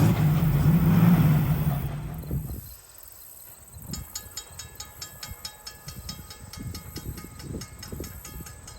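A passenger train rolling past and moving away, its running noise and low hum fading about two and a half seconds in. After that comes a faint, quick, regular ticking.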